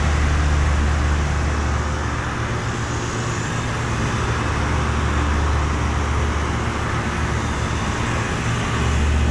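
2018 Lennox Elite commercial air conditioner, a 7.5-ton unit, running under load: a steady low compressor hum under the rush of the condenser fan. The low hum eases a little from about two seconds in and returns near the end.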